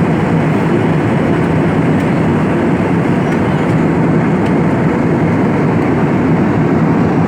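Airliner cabin noise in flight: the steady rush of the engines and airflow, heard from inside the cabin.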